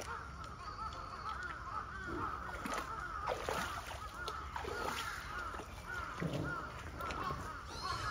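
Birds calling over and over, a dense run of short repeated calls.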